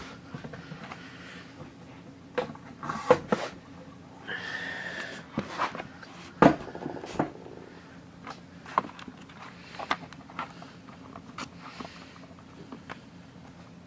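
Irregular clicks, taps and knocks of a camera and a laptop being moved and repositioned by hand, with a short scraping noise about four and a half seconds in and the loudest knock about six and a half seconds in.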